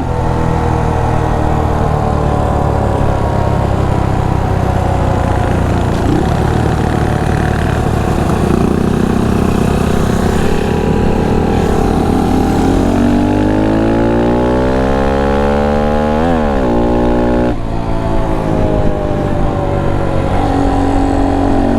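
2019 Honda Monkey 125's single-cylinder four-stroke engine running under way, its revs falling and rising, with a quick sharp drop and pickup about sixteen seconds in.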